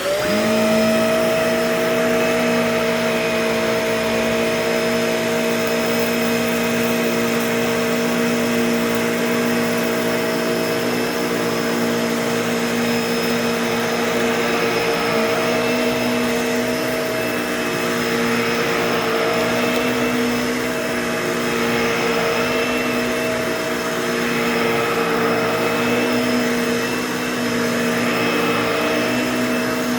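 Bissell Pet Hair Eraser Turbo Plus upright vacuum cleaner switching on and then running steadily with a constant whine, a little loud.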